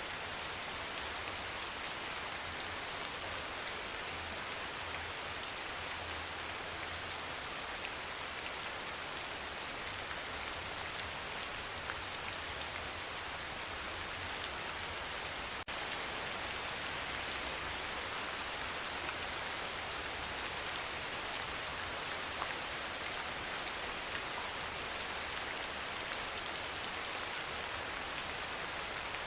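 Steady rain falling, an even, dense patter of drops with no change in intensity. A split-second break about halfway through, where the recording briefly drops out.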